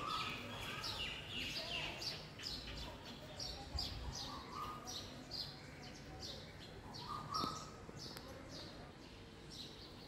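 Small birds chirping repeatedly: short, high, falling notes, two or three a second, thinning out near the end. A single sharp click stands out about seven seconds in.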